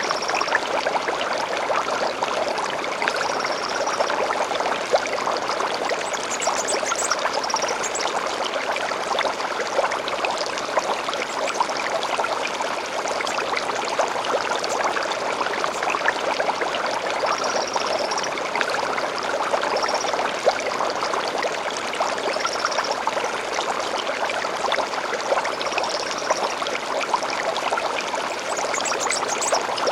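Shallow stream babbling steadily, with small splashes throughout. Short, high bird chirps come now and then, a few as quick rising trills.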